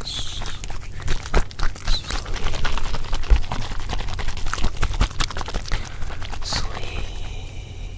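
Layered ASMR trigger sounds: a dense, irregular run of taps and clicks.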